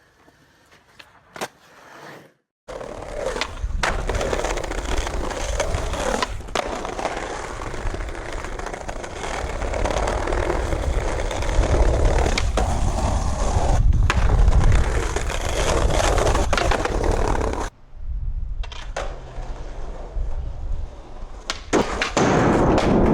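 Skateboard wheels rolling over rough pavement in a steady loud rumble, broken by several sharp clacks of the board, starting a little under three seconds in and cutting out briefly near the end before rolling on again.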